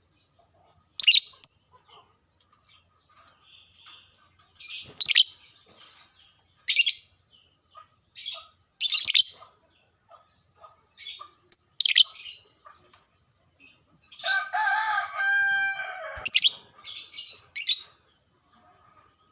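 Lovebird chattering in short, shrill bursts of high chirps a second or two apart, with a longer, lower drawn-out call lasting about two seconds near the end. This is the kind of lovebird song used as a lure to stir other lovebirds into singing.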